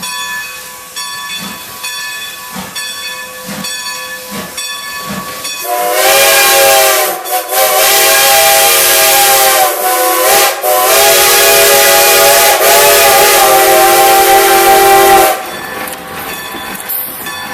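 Strasburg Rail Road No. 90's multi-note steam chime whistle sounding loudly in three blasts: a short one about six seconds in, a longer one, and the longest ending sharply about fifteen seconds in. Before it, the locomotive hisses with slow steam chuffs about once a second.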